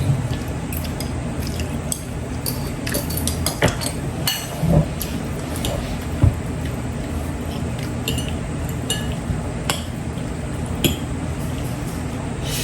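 Forks clinking now and then against plates during a meal, in short irregular ticks, over a steady low hum.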